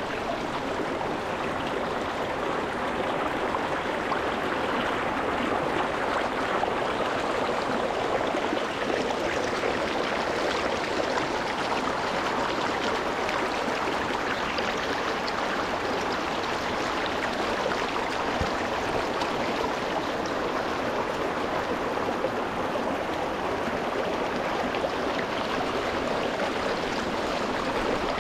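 Shallow rocky stream: water rushing and gurgling over rocks in a steady, even wash.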